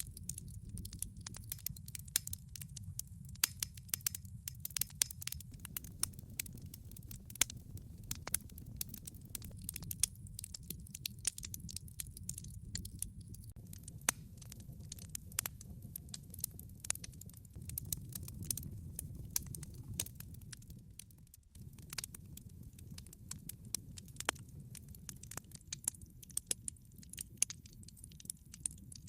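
Log fire burning in a fireplace: frequent, irregular sharp crackles and pops of burning wood over a steady low rumble.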